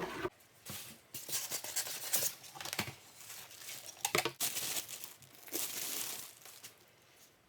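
Packaging crinkling and rustling in irregular bursts as it is handled and pulled apart, with a longer tearing rustle a little past the middle.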